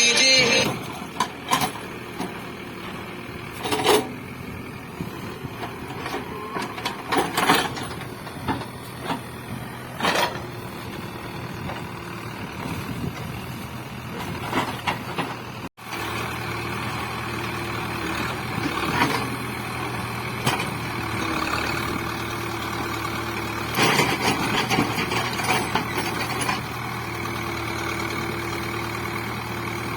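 Diesel engine of a Cat 424B2 backhoe loader running steadily while working, with scattered sharp knocks and cracks every few seconds.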